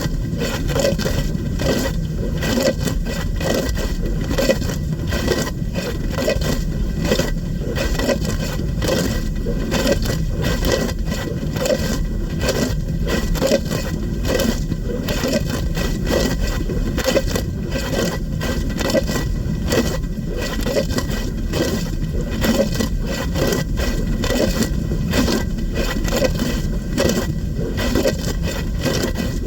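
Dishwasher running its wash cycle, heard from inside the tub: a steady, dense spatter and slosh of water jets hitting the racks and walls, over a low rumble.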